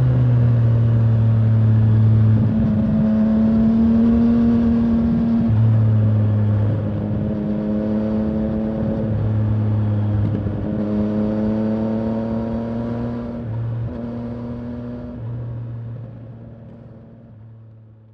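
Yamaha Tracer 900's inline three-cylinder engine running under way, its pitch rising and settling in stretches of a few seconds with throttle and gear changes. The sound fades out near the end.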